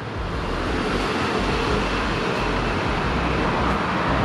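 Steady rushing background noise with an uneven low rumble, like road traffic or a busy workshop.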